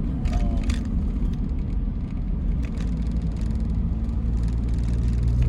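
Steady low rumble of engine and road noise inside a moving car's cabin, with a few faint clicks.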